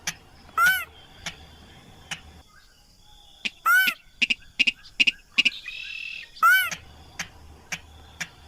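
Slaty-breasted rail (sintar) calling: a run of sharp ticking notes about twice a second, broken by three loud, short, arched calls about three seconds apart, with a cluster of quicker notes between the second and third. This is a hunters' lure call for drawing in the birds.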